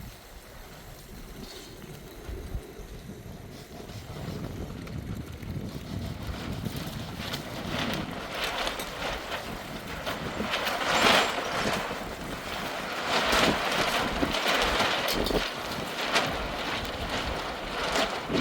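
Storm wind blowing in gusts and buffeting the microphone. It is lower and quieter at first, then surges repeatedly and grows louder through the second half, strongest about two thirds of the way in.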